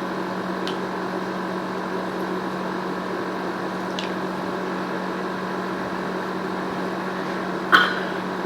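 Steady mechanical hum in a small room, with a couple of faint ticks and one short louder click near the end.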